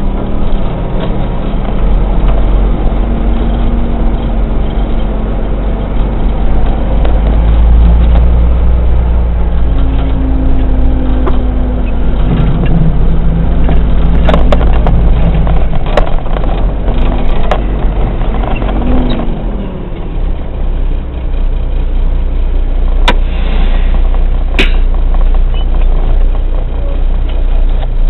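Kenworth water truck's diesel engine running under way. Its note shifts pitch several times and drops a little over halfway through, then runs steadier and a bit quieter, with a couple of sharp clicks near the end.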